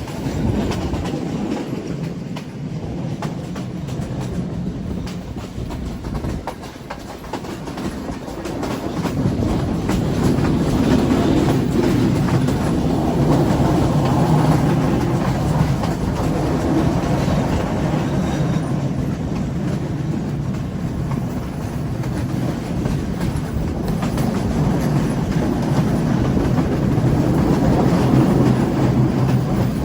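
Passenger train running on the line: a steady rumble of the carriages with the wheels clicking over the rail joints, growing louder about nine seconds in.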